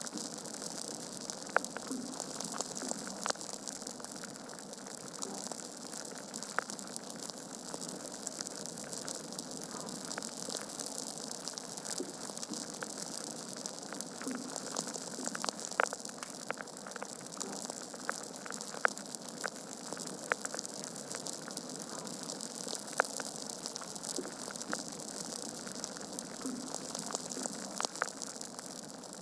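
Wood fire burning in a fireplace: a steady hiss with scattered sharp crackles and pops from the logs, some louder than others, several a few seconds apart.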